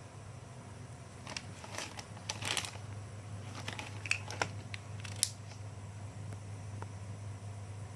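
Handling noise: a scatter of light clicks and rustles over a few seconds, the sharpest click about five seconds in, over a steady low hum.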